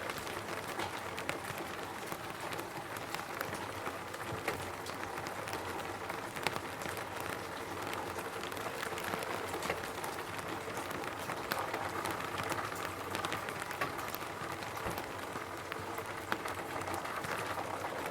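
Raindrops pattering steadily on a roof: an even hiss of rain with many small, sharp drop ticks scattered through it.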